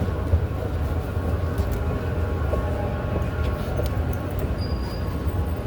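Metro train running: a steady low rumble with a faint hum and scattered light ticks.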